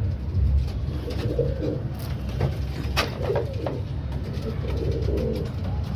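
Domestic pigeons cooing repeatedly in their loft, over a steady low rumble, with a sharp click about three seconds in.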